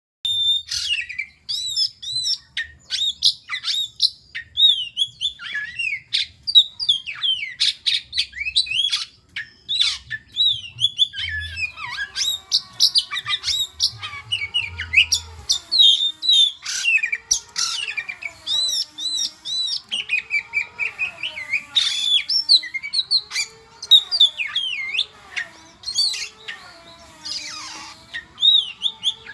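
Oriental magpie-robin (kacer) singing a fast, varied run of high whistles and chirps without a break. From about twelve seconds in, a lower wavering tone runs beneath the song.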